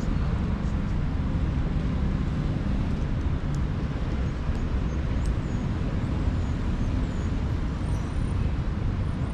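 Steady city traffic rumble.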